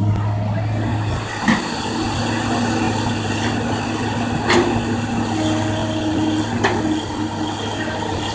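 Kobelco excavator's diesel engine running steadily with a low hum, while it digs. Three sharp clanks stand out over it, spread through the stretch.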